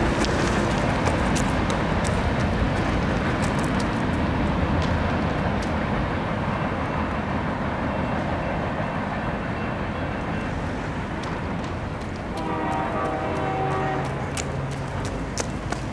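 Union Pacific freight train passing, a steady rumble of wheels on rail. About twelve seconds in, the locomotive horn sounds again for a couple of seconds.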